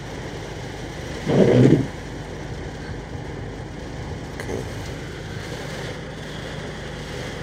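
Car engine idling, a steady low hum heard from inside the cabin, with one brief louder low rumble about a second and a half in.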